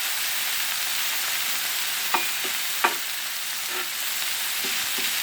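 Top sirloin steaks and shrimp sizzling on a Blackstone flat-top griddle, a steady frying hiss. Two sharp ringing clicks come about two seconds in, under a second apart, with a few fainter ones later.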